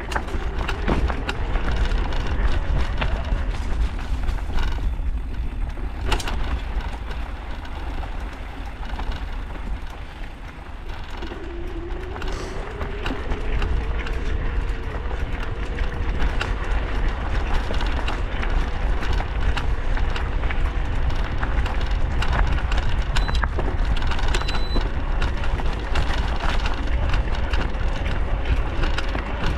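A vehicle on the move: steady engine and road noise over a low rumble. It eases off around ten seconds in, then the engine note climbs about eleven seconds in and holds as it picks up speed.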